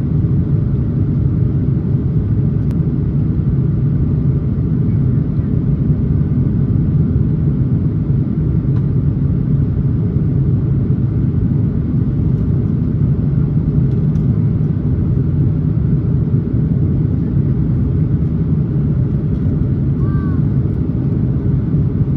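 Steady low rumble of an Airbus A330-300 cabin in flight: engine and airflow noise heard from an economy seat.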